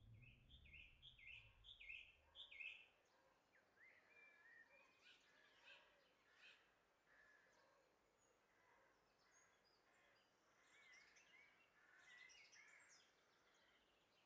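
Faint birdsong: a quick run of about five chirps in the first three seconds, then scattered softer calls, busier again about eleven to thirteen seconds in.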